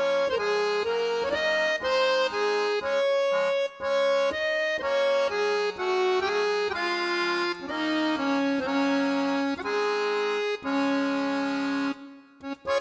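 Background music: an instrumental melody moving note to note in held, even steps, which breaks off about a second before the end.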